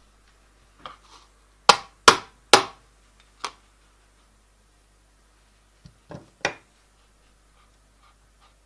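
A series of sharp knocks of hard objects: three loud ones in quick succession, a fainter one, then three more a few seconds later.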